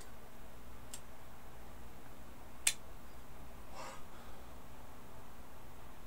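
Two sharp single clicks of a computer mouse, about a second in and near the middle, then a softer brief scuff, over a steady low hum.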